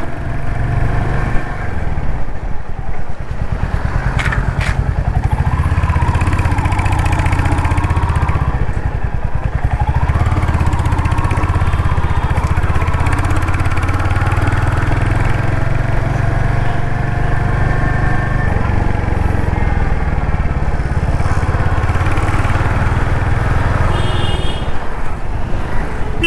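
Royal Enfield Hunter 350's single-cylinder engine and exhaust running while the motorcycle is ridden, a steady low thump that rises and falls in pitch as the throttle changes.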